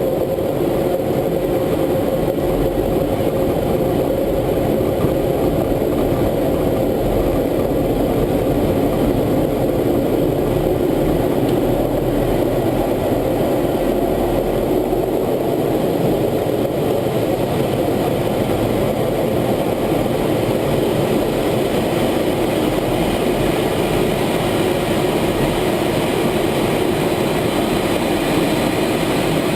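F-16 fighter jet's turbofan engine running steadily, heard from inside the cockpit as a constant low noise with no change in pitch.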